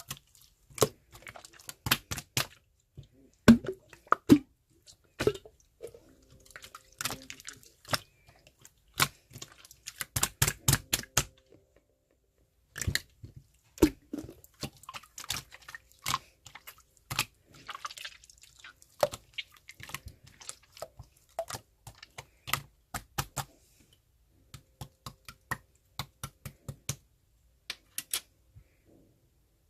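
Slime being squeezed and poked by hand, making many irregular sharp clicks and pops as air pockets burst, with a dense run about ten seconds in.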